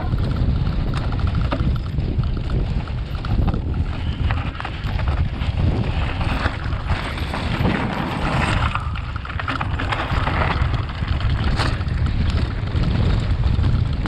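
Wind buffeting the microphone of a camera on a moving e-bike, a steady low rumble, with occasional knocks and rattles from the bike over rough ground.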